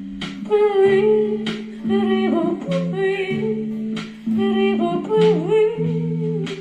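Acoustic guitar strumming chords, about one stroke a second, under a voice singing a wavering melody without clear words.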